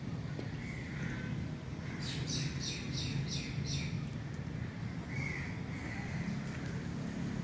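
A bird calling: a quick run of about five sharp, evenly spaced high calls, with a few fainter chirps before and after, over a steady low background rumble.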